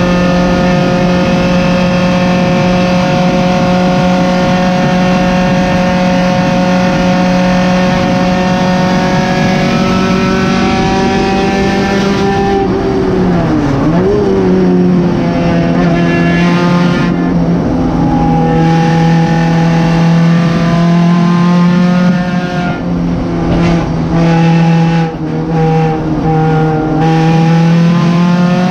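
Honda D16 four-cylinder engine of a 1991 Civic EF hatchback race car, heard from inside the cabin, running hard at a steady high pitch. About 13 seconds in the pitch dips briefly and comes back. Several short lifts off the throttle follow in the later seconds, and it climbs in pitch again near the end.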